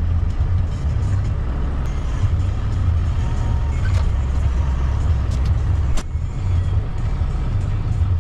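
Steady low rumble of a semi truck's engine and road noise heard while driving, with a sharp click about six seconds in.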